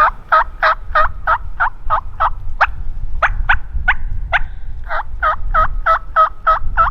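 Zink Screaming Lady turkey call worked in a fast run of sharp hen-turkey notes, cutting, about three a second, with short breaks partway through.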